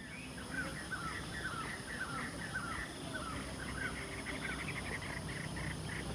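A bird repeating short down-slurred chirps, about three a second, over a steady high-pitched insect drone.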